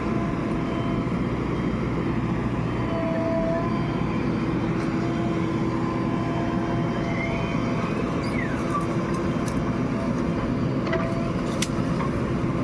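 Heavy diesel machinery running steadily, with a few sharp knocks near the end.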